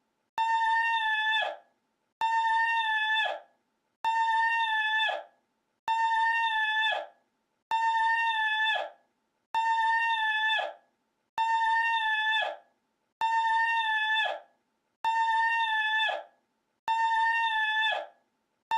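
A looped high-pitched drawn-out call, held on one steady pitch and dropping at the very end. It repeats identically about every two seconds, about ten times in a row.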